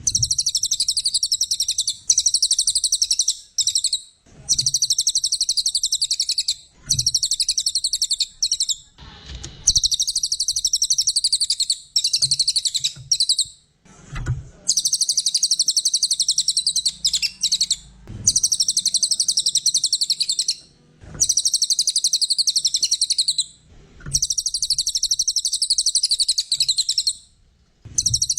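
Brown cililin singing: long bouts of a very fast, high-pitched trill, each lasting a few seconds, broken by short pauses.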